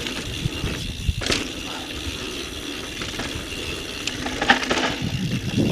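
Mountain bike rolling downhill on a dirt trail: steady tyre and ride noise with a few sharp clicks and rattles from the bike.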